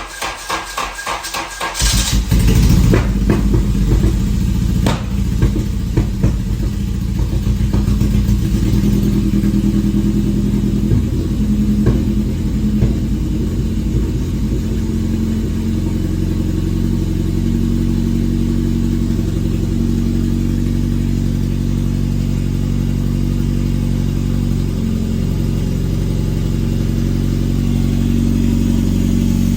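Engine with open exhaust headers, on its first start: the starter cranks it briefly, it catches about two seconds in, runs unevenly with sharp pops for a while, then settles into a steady, loud idle.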